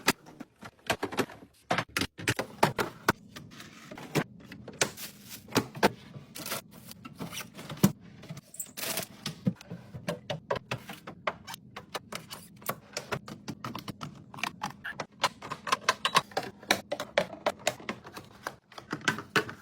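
Food containers and packaging being handled and set into a refrigerator: a dense, irregular run of clicks, taps and knocks, a few of them sharper and louder, with a short rustle about nine seconds in. A faint steady hum runs underneath.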